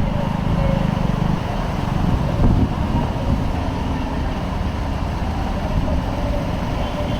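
Street traffic noise: vehicle engines running steadily, with a brief louder swell about two and a half seconds in.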